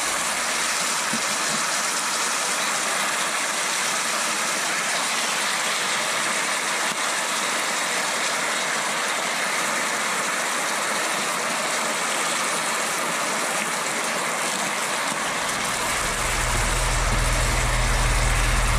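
Turr meat, onions and salt pork frying in oil in a hot stainless pan: a steady sizzle. A low rumble joins near the end.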